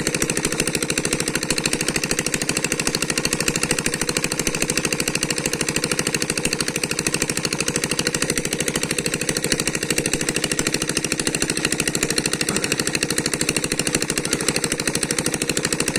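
A small engine running steadily at an even speed, with a fast, regular thumping beat.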